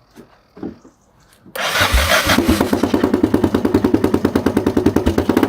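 Yamaha XTZ 660 Ténéré's single-cylinder engine starting with its muffler removed. It catches about a second and a half in and runs loudly with a rapid, regular beat from the open exhaust.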